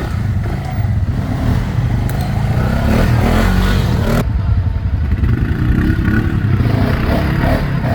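ATV engine running while riding, with a steady low drone and rattling clatter over it. About four seconds in, the higher noise drops away abruptly while the engine goes on.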